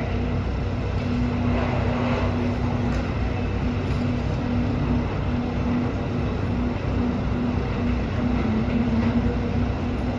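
Train on an elevated guideway running steadily: a continuous rumble with a low hum that wavers in and out.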